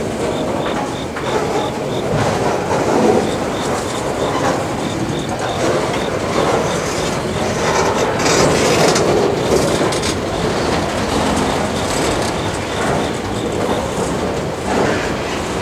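Freight train rolling past, with a steady rumble of cars and wheels clacking over the rail joints.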